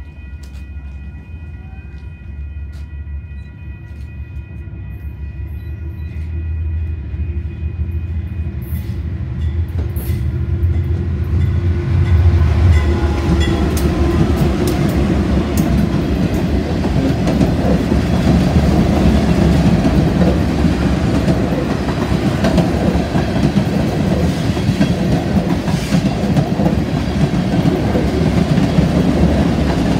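Diesel freight train passing: the locomotive's low rumble builds as it approaches and is loudest as it goes by about twelve seconds in. Before that, a held chord of steady tones, a distant horn, dies away. Then a string of tank cars rolls past with a steady clickety-clack of wheels on the rails.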